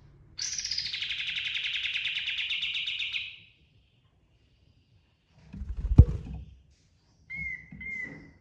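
Kapas tembak (katem) songbird singing: a fast rolling trill lasting about three seconds, then a single sharp crack about six seconds in, the loudest sound here, then two short whistled notes near the end.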